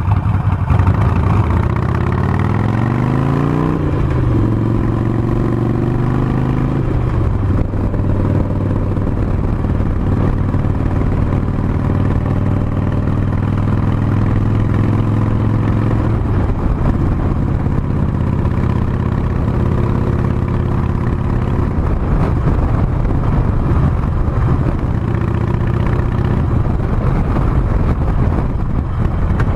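Harley-Davidson Sportster 48's 1200 cc V-twin engine heard from the rider's seat while riding. It accelerates with a rising pitch for the first few seconds, then holds a steady cruising pitch, and drops lower and more uneven after about halfway.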